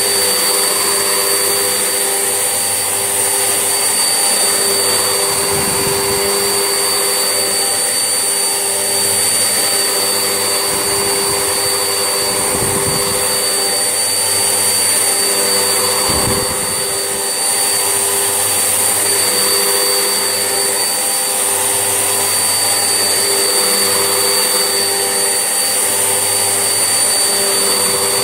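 Vax Essentials vacuum cleaner running steadily, its motor giving a constant whine over a loud rush of air. The low hum changes briefly a few times.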